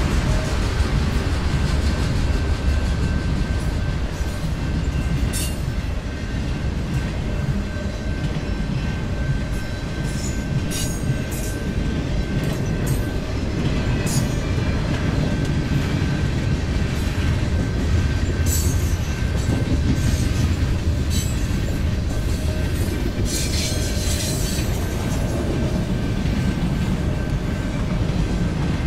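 CSX freight train rolling past at a grade crossing: a steady low rumble of passing cars, broken now and then by sharp clacks of wheels over the rail joints, most frequent in the middle and near the end.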